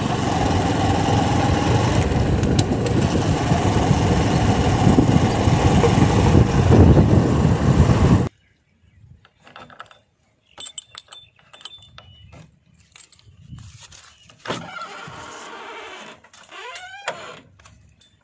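Heavy-machinery diesel engine running loudly and steadily, cutting off abruptly about eight seconds in. After that come scattered quieter clicks and knocks, with a few short pitched sounds near the end.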